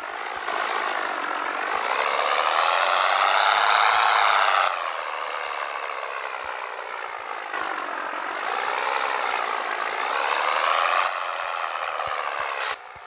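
Scania 113 truck's diesel engine pulling away under load, its pitch rising as it revs through a gear and dropping at a gear change about five seconds in, then rising again and dropping at another shift near eleven seconds. A brief sharp hiss comes near the end.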